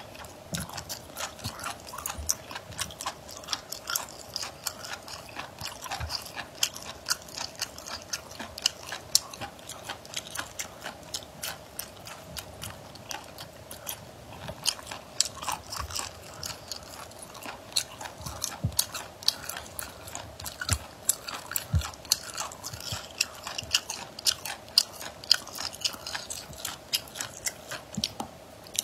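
Close-miked biting and chewing of brown spoon-worm pieces (sea intestine): a dense run of sharp crunches and wet mouth clicks.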